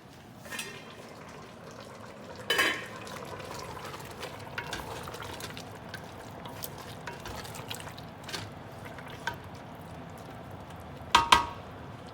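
A utensil stirring curry in a cooking pot over a steady low sizzle. It clinks sharply against the pot about two and a half seconds in, and again, louder and ringing, near the end.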